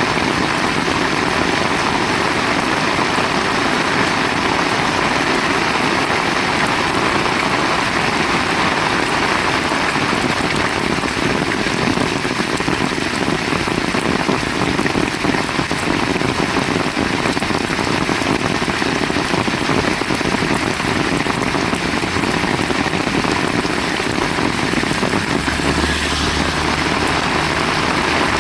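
Heavy rain pouring down steadily, a dense even hiss. A low rumble joins near the end.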